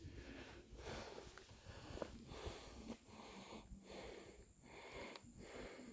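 A man breathing heavily into a close microphone, with soft rapid breaths about one every three-quarters of a second, out of breath after a steep climb.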